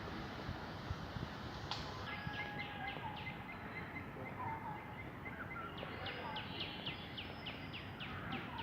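Birds singing: runs of short, quickly falling chirps, a few per second, starting about two seconds in and again about six seconds in, over a steady outdoor background hiss.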